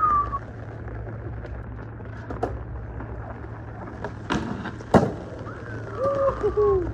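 Skateboard trick attempt: two sharp impacts, a pop and then a loud landing slap, about four and five seconds in, over a steady low background noise, with short voice calls near the start and near the end.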